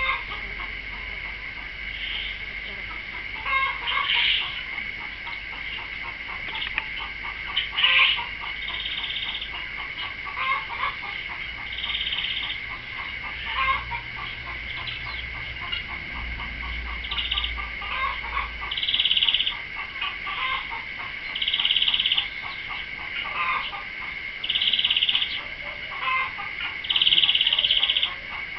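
Birds calling outdoors, with short sharp calls every second or two and several longer, high, even-pitched calls, over a steady high-pitched drone.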